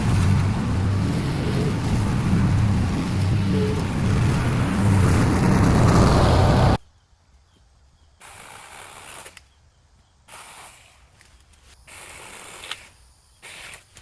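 A small engine running steadily with a low pulsing rumble, cut off abruptly about seven seconds in. Four short bursts of hissing noise follow.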